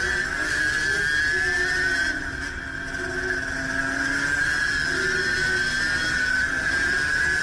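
A motorcycle running steadily: a high whine over a lower engine note that wavers in pitch, easing off briefly about two seconds in.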